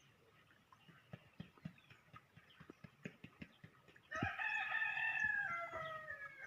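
A rooster crows once, about four seconds in: one long call that drops in pitch at the end. Before it there are only faint, scattered short ticks and taps.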